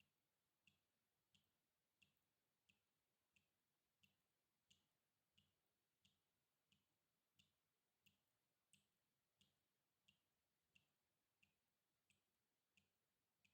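Water dripping in an even rhythm, one faint drop about every two-thirds of a second.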